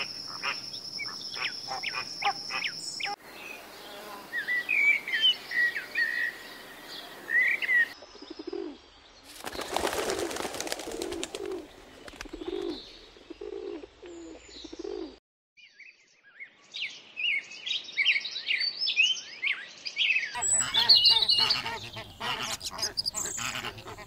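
Several bird recordings cut together. It opens with repeated short calls from a flock of flamingos, then birds chirping. Next come feral pigeons cooing low and over and over, with a loud flurry of wing flaps about ten seconds in as some take off. After a short break there is more chirping, and near the end a flock of white domestic ducks calling.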